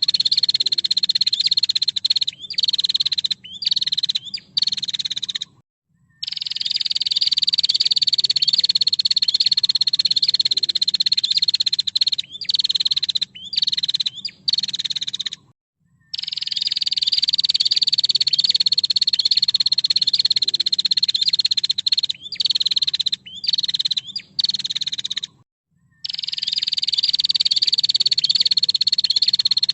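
Female prinia (prenjak) giving its rapid buzzing rattle, held for several seconds and then broken into short bursts. The same cycle repeats about every ten seconds, with a brief silence between cycles, as in a looped training recording. A faint low hum runs underneath.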